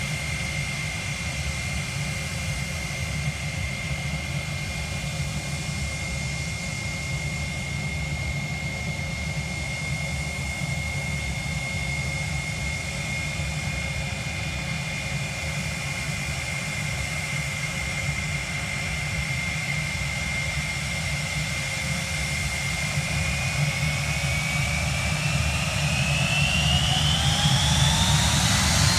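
Airliner's turbine engines running with a steady low rumble and a high whine, then spooling up near the end: the whine rises steeply in pitch and the sound gets louder.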